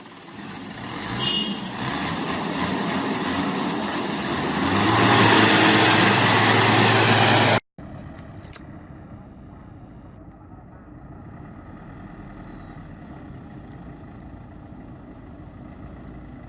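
A heavy truck's engine working hard, getting louder over about seven seconds and settling into a steady low drone. It cuts off abruptly, followed by a much quieter steady engine noise.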